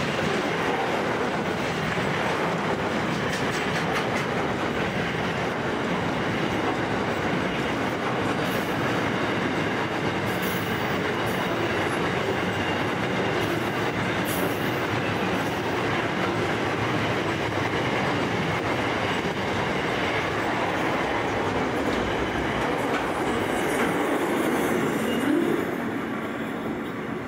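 Container wagons of a long freight train rolling past close by: a steady rumble of steel wheels on rail with clicks over the rail joints, and a few brief high wheel squeals around the middle. The sound falls away near the end as the last wagon passes.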